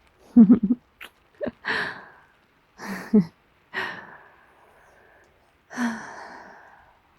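A woman's close-up kisses and soft, breathy giggles: a handful of short bursts about once a second, with a couple of small lip clicks near the start.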